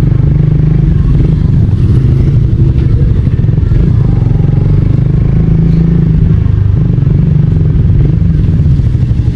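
Suzuki Raider R150 Fi motorcycle's single-cylinder engine running steadily while being ridden, a continuous low drone.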